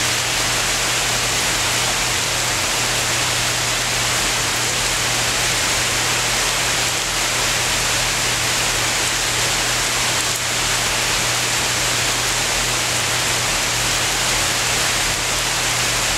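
Heavy summer rain pouring down steadily: a dense, even hiss.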